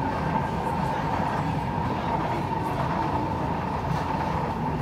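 Kawasaki C751B electric multiple unit running between stations, heard from inside the carriage: a steady rumble of the running train with a constant whine, and a few faint ticks from the wheels on the track.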